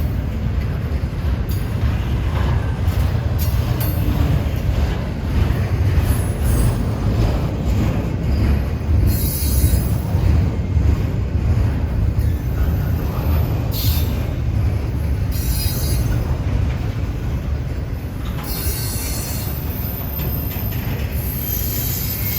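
Train cars rolling past on the rails with a steady heavy rumble. Short bursts of high wheel squeal break in several times.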